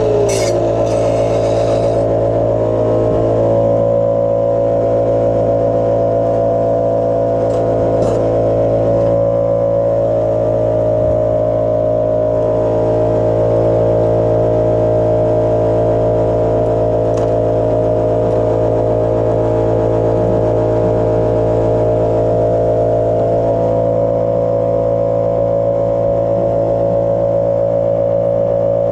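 Welding-shop equipment running with a steady machine drone: a fixed hum of several tones that holds unchanged, with a few faint clicks.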